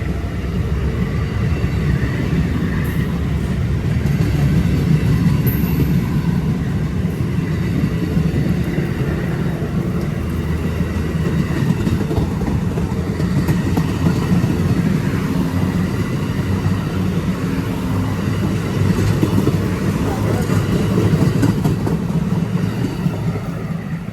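A train passing close by on the tracks, with a steady low rumble of wheels and engine that dies down near the end.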